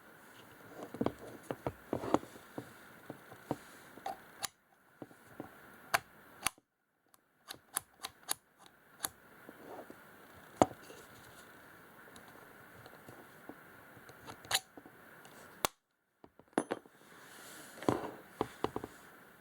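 Scattered sharp clicks and light knocks of small hard parts being handled, at uneven intervals, with no motor running.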